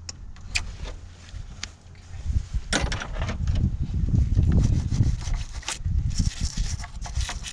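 Scraping and scrubbing at a corroded car battery terminal: irregular scrapes and sharp knocks as the crusted corrosion is worked off, busiest a couple of seconds in.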